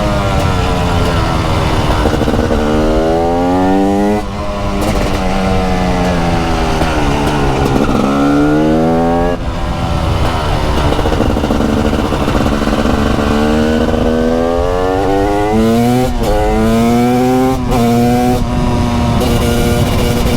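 The 300cc two-stroke single-cylinder engine of a TM SMR 300 supermoto, ridden hard. The revs climb again and again, each climb cut off sharply by a quick gear change, and the pitch falls slowly once as the bike slows, before picking up again.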